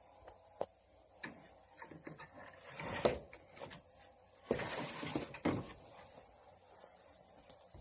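Insects trilling steadily in one high, even band, with a few scattered knocks and scuffs, the loudest about three seconds in and a cluster of them around five seconds in.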